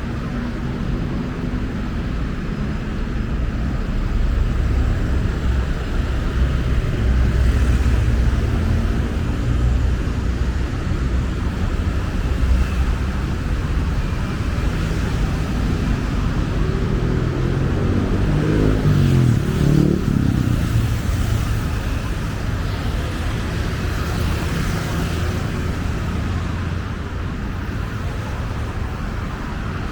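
Road traffic: motor vehicle engines running and passing in a steady low rumble. About two-thirds of the way through, one engine's pitch rises and falls as it passes.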